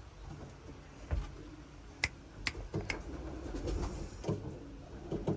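Pigeons cooing softly in a loft, with three sharp clicks about two to three seconds in.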